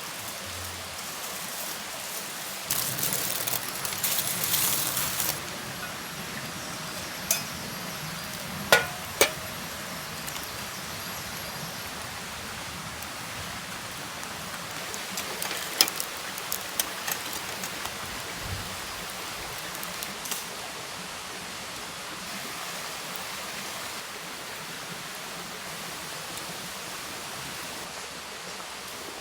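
Steady outdoor hiss with a louder rustling stretch about three seconds in, and a few sharp clinks and knocks of camp cooking gear, twice close together around nine seconds and again around sixteen seconds.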